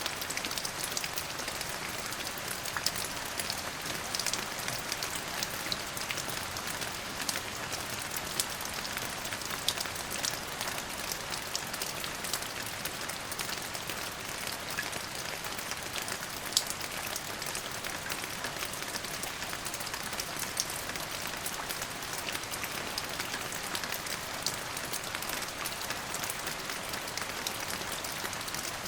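Steady rain falling, a continuous hiss dotted with the sharp taps of individual drops.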